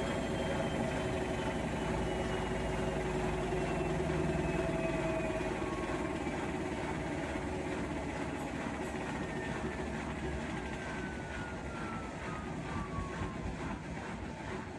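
Bosch Serie 4 washing machine's drum slowing down at the end of its 1000 rpm final spin: the motor whine falls steadily in pitch as the drum loses speed, and the low hum fades about halfway through.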